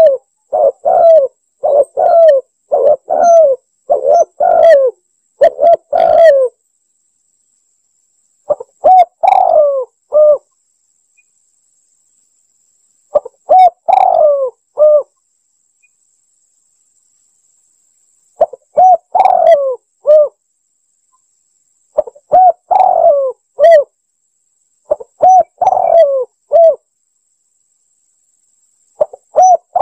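Spotted dove cooing: a quick run of short coos over the first six seconds, then its multi-note phrase, a longer wavering coo between shorter ones, repeated about every four seconds with pauses in between.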